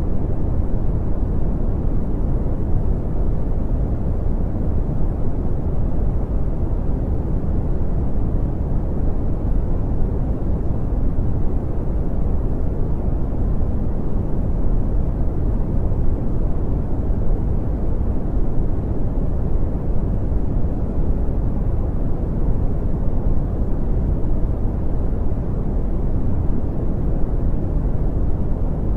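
Steady brown noise: an even, deep rumbling hiss, strongest in the bass and rolling off in the highs, with no change.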